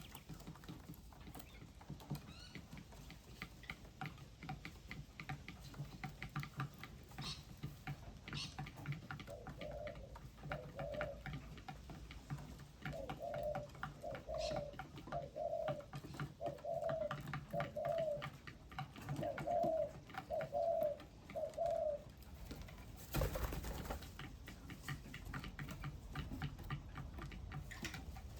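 A dove cooing: about a dozen low, evenly spaced coos, roughly one a second, through the middle of the stretch, over many faint quick clicks. A short rushing burst of noise comes near the end.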